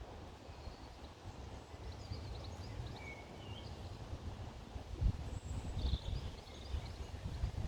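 Small birds chirping faintly and intermittently, over a low uneven rumble with a few soft thumps, strongest about five seconds in and near the end.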